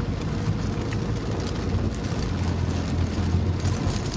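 A car driving in heavy rain: a steady low road-and-engine rumble under the hiss and patter of rain.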